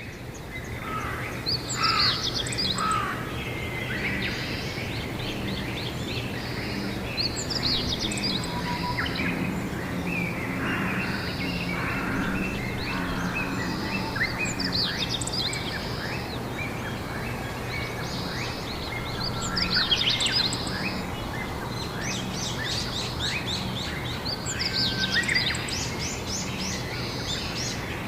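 Birds singing in spring, one bird repeating a quick trilled phrase about every six seconds while others call softly between. A steady low hum runs underneath.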